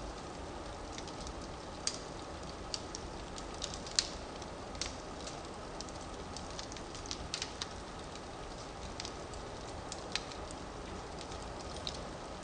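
Firewood burning in a fireplace: a steady low hiss with scattered sharp crackles and pops, the loudest about four seconds in.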